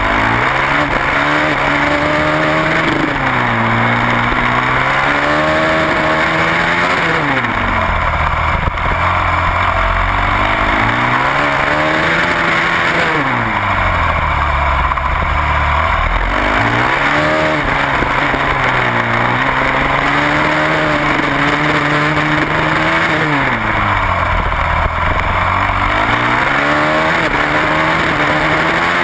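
Supermoto racing motorcycle engine at racing speed, heard from a camera mounted on the bike with wind rush. The revs climb and then drop away sharply about every five seconds, as the rider accelerates out of corners and brakes into the next.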